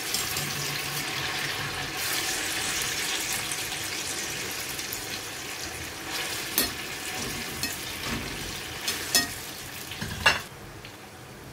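Boiled hakka noodles, still damp, sizzling steadily as they fry in hot oil in a wok, just added. They are stirred with a utensil that clicks sharply against the pan a few times, and the sizzle drops quieter near the end.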